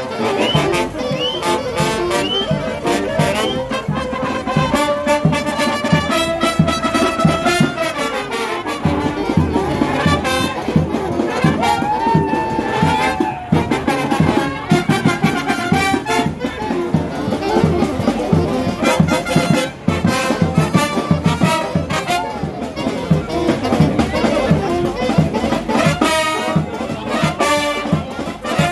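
Street carnival brass band playing a lively tune, with trumpets and trombones carrying the melody over a steady percussion beat.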